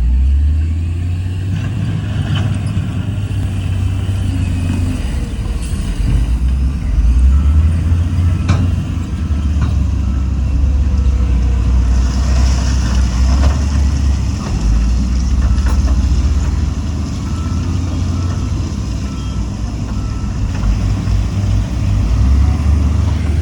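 Diesel engine of heavy earthmoving equipment working, a deep low rumble that swells and eases every few seconds, with a few faint knocks and a brief hiss near the middle.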